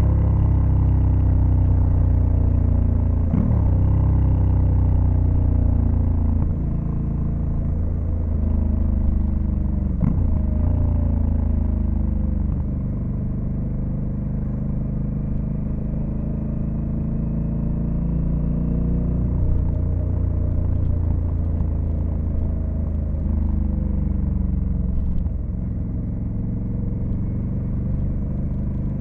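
Honda Africa Twin CRF1100L's parallel-twin engine running under way, its pitch rising and falling with speed, with short dips in pitch at about three, ten and twenty-five seconds where gears are shifted. It gets a little quieter about six seconds in.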